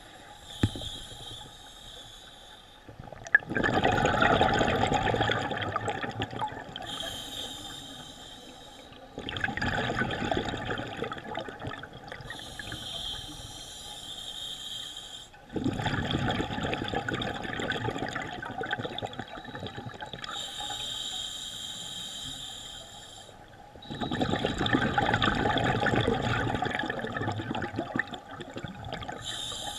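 Scuba diver breathing through a regulator underwater: each breath is a short hissing inhale followed by a louder gush of exhaled bubbles, about four breaths in slow, even rhythm.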